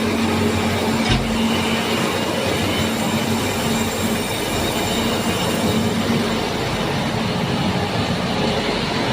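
Train running on the track: a steady rumble of wheels on rails with a low steady hum, and a single knock about a second in.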